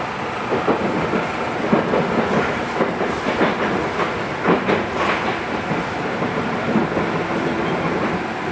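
JR West 221 series electric train heard from inside a car while running, a steady rumble with repeated knocks and clatters of the wheels over the rail joints.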